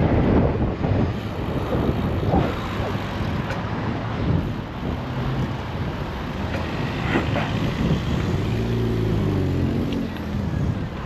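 Traffic and road noise heard while cycling, with wind rushing over the bike camera's microphone. A motor vehicle's engine is heard passing close by about eight seconds in.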